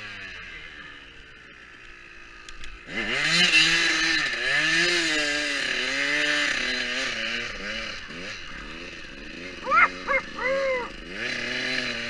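Motocross bike engine revving up and down repeatedly while riding, its pitch rising and falling with the throttle; it is quieter for the first few seconds, then gets louder from about three seconds in.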